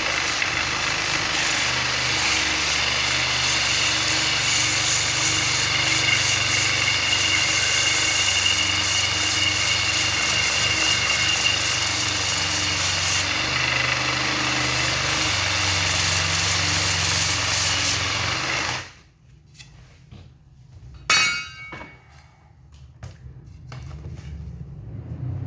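A power tool running steadily and loudly, then switched off and stopping abruptly near the end, followed by a single sharp knock.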